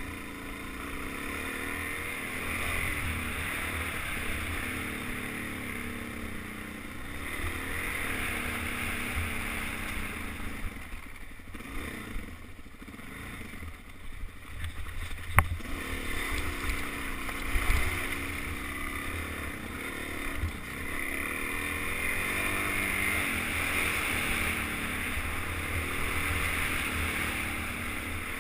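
Suzuki DR-Z400 single-cylinder four-stroke dirt-bike engine revving up and down on a trail ride, with wind buffeting the helmet-camera microphone. The engine eases off for a few seconds near the middle, when a sharp knock is heard, and a thump follows shortly after.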